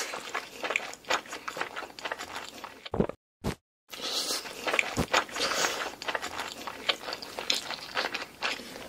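Crunchy biting and chewing, a dense run of crisp crackles, with a short break just before the middle.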